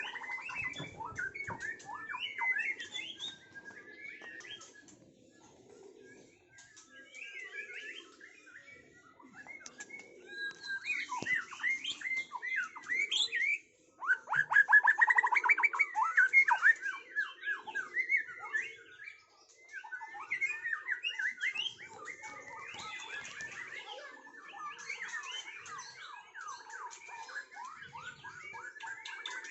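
A crowd of birds chirping and calling together in a dense, rapid chatter of short high notes, loudest about halfway through.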